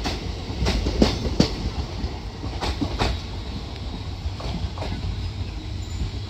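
Passenger train coaches rolling past and pulling away, their wheels clacking over rail joints over a steady low rumble. The clacks come often for about three seconds, then thin out and grow fainter as the last coach recedes.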